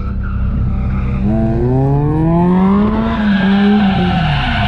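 Car engine idling, then revved: its pitch climbs for about two seconds, holds briefly and drops back down near the end.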